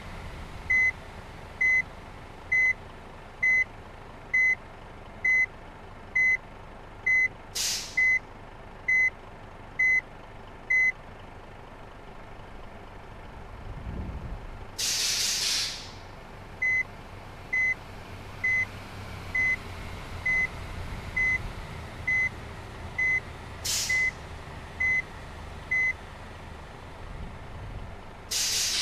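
Large bus reversing: its reversing alarm beeps steadily about once a second, pausing for several seconds midway, over the low sound of the running engine. The air brakes hiss four times, the longest hiss in the pause between the beeps and the last near the end.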